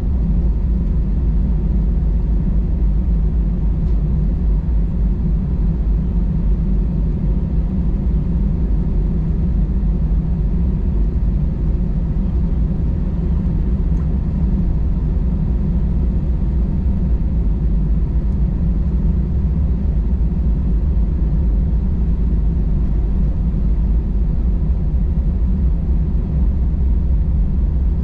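Steady low rumble of cabin noise inside an Airbus A320 with CFM56 engines: engine and airflow noise heard from a window seat behind the wing, holding level without rising or falling.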